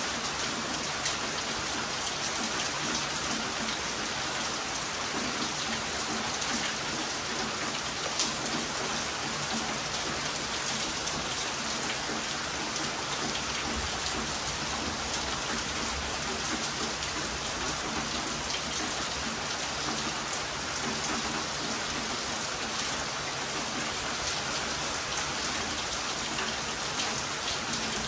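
Heavy rain falling steadily: a dense, even hiss with scattered drop hits.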